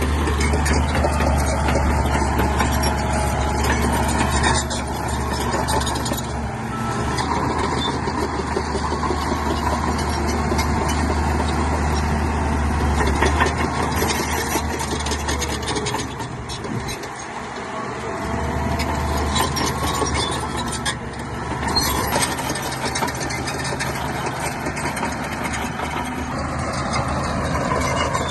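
Heavy diesel engine of a Shantui crawler bulldozer running steadily while it works, easing off briefly about two-thirds of the way through before picking up again.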